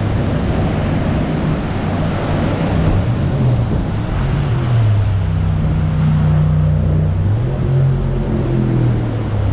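Motorboat engine running at speed, its pitch sliding down and up a couple of times, over a steady rush of wind and water.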